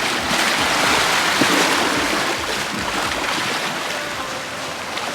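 Sea waves washing on the shore: a rush of surf that swells within the first second or so and then slowly dies away.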